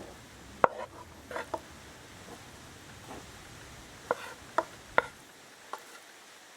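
About seven sharp, irregular knocks of kitchen work, the loudest about half a second in and three close together around four to five seconds in.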